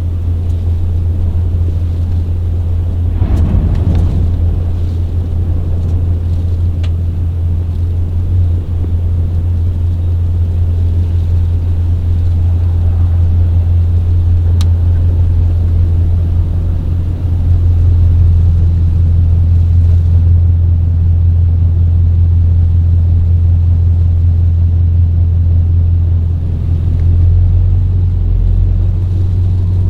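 Steady low rumble with no speech, slightly louder from a little past the middle.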